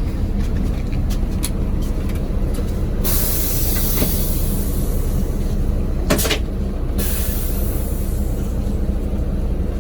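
Steady low rumble of a charter coach's engine and road noise, heard inside the passenger cabin.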